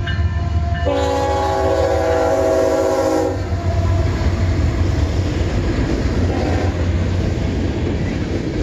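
Freight train passing close by: the diesel locomotive's air horn sounds one loud chord-like blast from about a second in to about three seconds in, over the low rumble of the engine. The locomotive then goes by and the freight cars roll past with a steady rumble and clatter of wheels on the rails.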